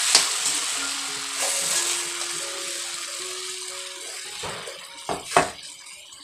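Taro greens frying in hot oil in a steel kadai, sizzling loudly at first and fading steadily. A spoon clicks against the pan as they are stirred, near the start and twice around five seconds in. Faint background music with soft held notes.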